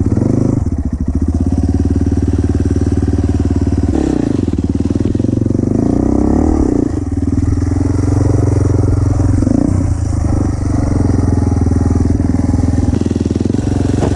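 Dirt bike engine running hard under load, its pitch dropping and rising again with throttle changes a few seconds in and once more later.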